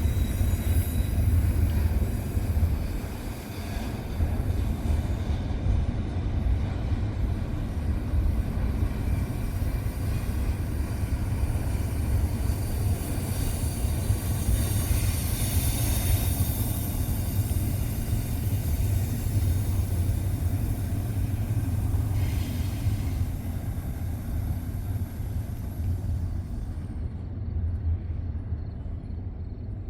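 Freight train rolling past: a steady low rumble of wheels and cars on the rails, with a brief louder swell about halfway and the sound thinning toward the end.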